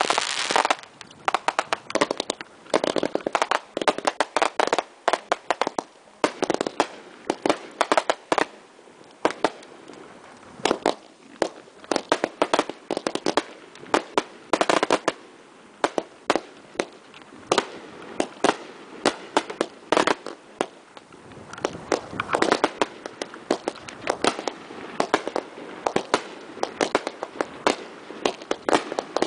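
Alamo 1.4G consumer fireworks finale: a continuous barrage of sharp bangs and crackling, many reports a second overlapping, with the densest volleys at the start, about halfway through and again a few seconds later.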